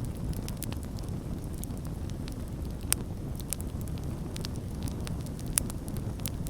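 Campfire burning with a steady low rumble of flames and frequent irregular crackles and pops of burning wood, two sharper pops standing out.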